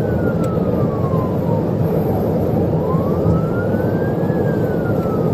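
Police car siren on a slow wail, one tone rising and falling about once every four and a half seconds, over steady road and engine noise.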